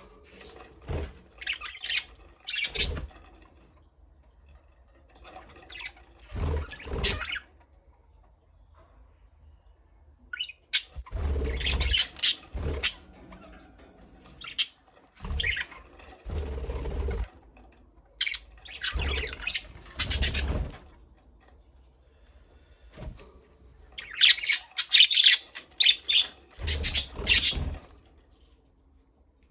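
Budgerigars chirping and chattering in repeated bursts of a second or two, with short quiet pauses between them.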